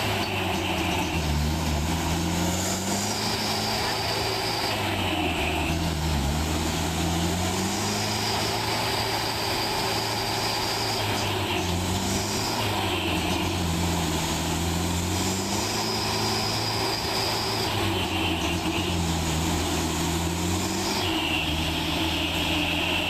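Truck's diesel engine running steadily under load, its pitch slowly rising and falling as it works over rough ground.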